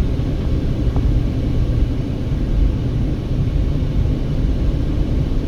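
A car being driven, a steady low rumble of engine and road noise.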